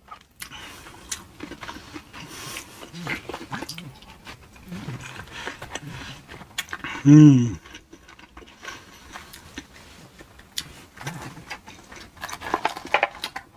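Close-up chewing of crispy shrimp tacos: wet crunches and mouth clicks throughout. A satisfied 'mm' hum comes about seven seconds in.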